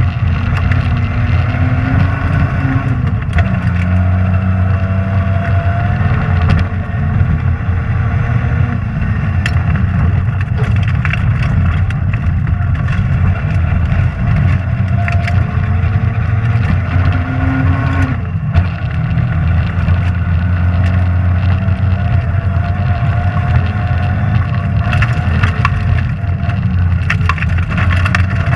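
Rally car engine heard from inside the car at full stage pace, pulling hard with upshifts about three seconds in and again around eighteen seconds. Scattered sharp ticks run through it throughout, from loose gravel striking the car.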